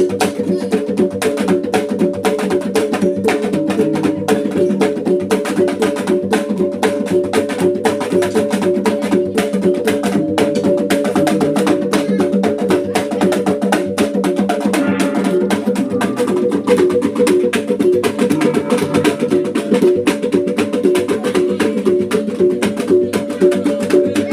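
Sumbanese gongs and drum playing a fast, steady rhythm of dense strikes, the gongs' tones ringing on under the beat.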